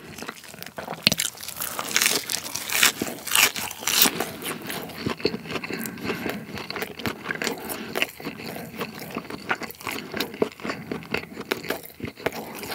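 Close-miked crunching and chewing of a mouthful of breaded, air-fried rolled pork cutlet filled with pollock roe. The crumb crust crackles in many irregular crunches, loudest in the first few seconds, then eases into steadier chewing.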